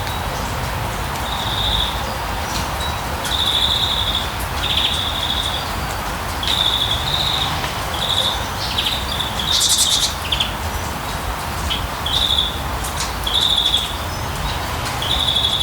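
A bird calling a short, high, trilled note again and again, roughly once a second, over a steady rushing background noise. About ten seconds in there is one brief, sharper, higher call.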